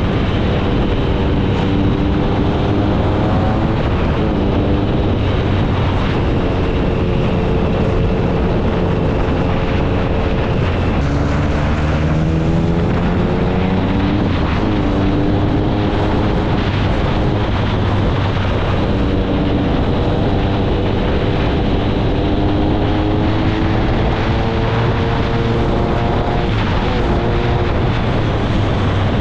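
Triumph Speed Triple 1050 inline-triple engine through an SC Project aftermarket exhaust, heard from on the bike while riding. The engine note climbs and drops several times as the rider works the throttle and gears, over wind rushing past.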